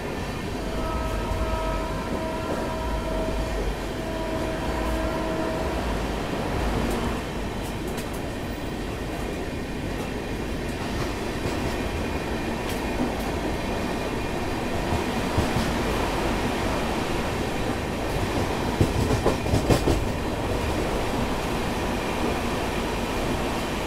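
Express passenger train running on the rails: a steady rumble with clickety-clack over the rail joints, the clacks bunching up in the later part. Near the start, a horn sounds twice in long blasts, the second shorter.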